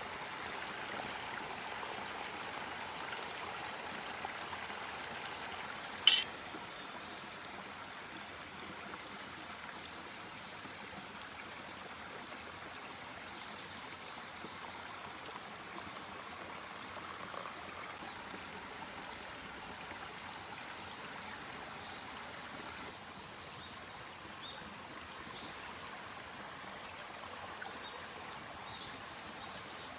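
Steady rush of a flowing stream, with one sharp click about six seconds in.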